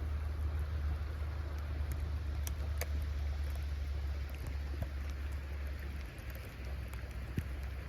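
Snowstorm wind buffeting the microphone in a low rumble over a steady hiss, with light pattering and a few sharp ticks scattered through. The rumble eases about six seconds in.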